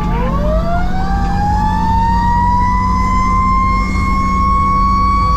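Fire engine siren winding up: its pitch dips briefly, then rises over about three seconds and holds high. A second, faster siren tone sweeps up and down repeatedly underneath, over the steady rumble of the truck's engine.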